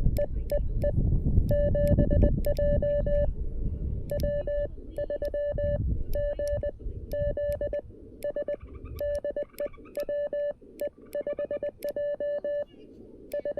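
Morse code from a CW transceiver: a single beeping tone keyed on and off in dots and dashes, sending in groups with short pauses between. A low rumbling noise lies under the first half and fades out about eight seconds in.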